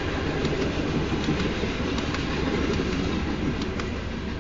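Freight train of railroad tank cars rolling past at close range: a steady rumble of steel wheels on rail, with irregular sharp clicks as the wheels pass over rail joints.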